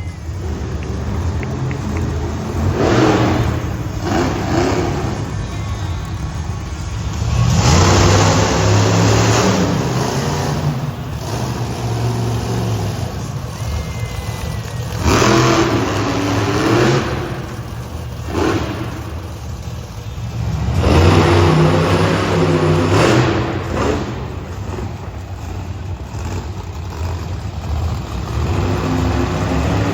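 Monster truck engines revving hard in an indoor arena, surging in about five loud bursts a few seconds apart.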